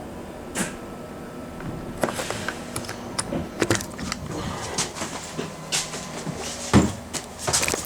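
Interior of a moving London bus: a steady low engine and road hum with frequent rattles and knocks from the bus's fittings, and a heavy thump about seven seconds in.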